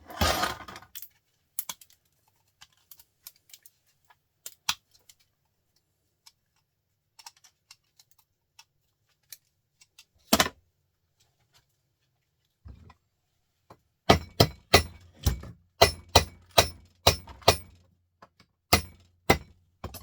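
Small metal motor parts clinking and knocking as a printer motor is taken apart by hand: a short clatter at the start, scattered clicks, then a run of about a dozen sharp taps, roughly two a second, near the end.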